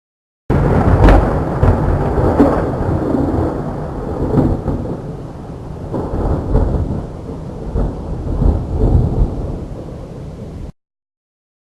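Rainstorm: a low, uneven rumble with rain, heavy in the bass and swelling several times. It starts suddenly and cuts off abruptly near the end.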